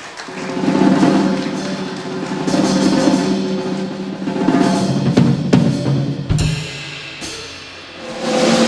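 Live jazz combo playing an instrumental intro led by drum-kit rolls, the music swelling and easing back, with a bright swell near the end.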